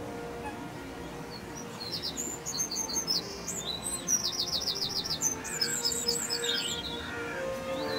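Birds chirping, with quick runs of high, rapidly repeated notes starting about two seconds in, over soft background music with held notes.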